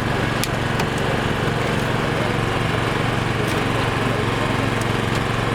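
A small engine running steadily close by, an even drone with a few faint clicks in the first second.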